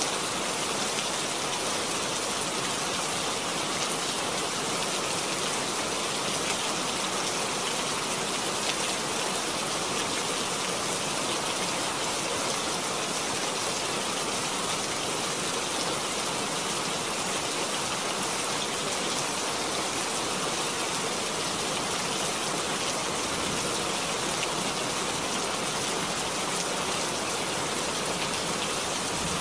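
Steady rain falling, an even, unbroken hiss that does not change in strength.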